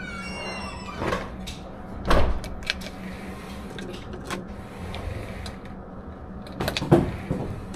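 Muffled gunshots at an indoor range: a few sharp bangs, the loudest about two seconds in and again near seven seconds, with smaller knocks between them, over a steady low hum.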